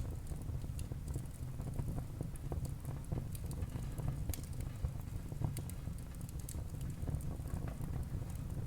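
Wood fire crackling in a fireplace: frequent irregular sharp pops and crackles over a steady low rumble of the burning.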